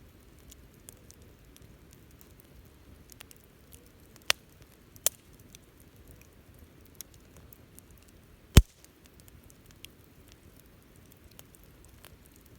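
Wood fire crackling: faint scattered ticks over a low steady background, with three sharp pops from the burning wood, the loudest about two-thirds of the way in.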